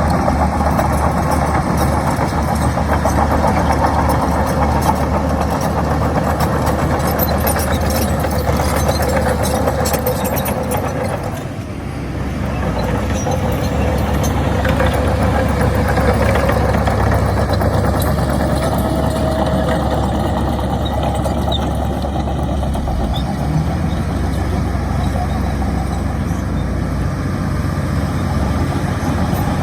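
Heavy construction machine's diesel engine running steadily under load, easing off briefly about twelve seconds in and then picking back up. Scattered light metallic clinks in the first half.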